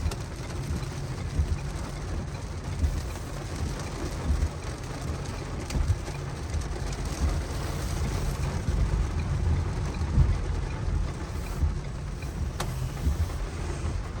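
Car driving slowly, a steady low engine and road rumble heard from inside, with a single sharp click near the end.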